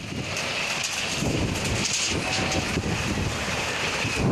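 Storm wind gusting hard across the microphone, a loud low rumbling buffet, over a steady rush of wind-driven heavy rain.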